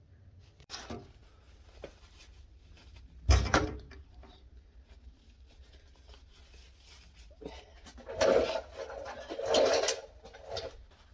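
Handling noises: a single thump about three seconds in, then rubbing and scraping, loudest between about eight and ten seconds in.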